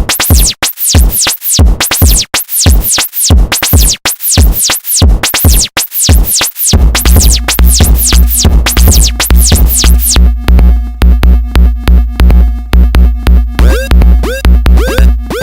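Electronic dance music in an electro/dubstep style: a repeating pattern of sweeping synth zaps over a drum-machine beat, giving way about seven seconds in to a heavy sustained bass with a chopped, pulsing rhythm.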